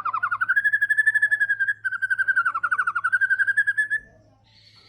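White-rumped shama singing a fast rattling trill of rapidly repeated notes, the 'trotol' delivery, its pitch dipping twice before it cuts off suddenly about four seconds in.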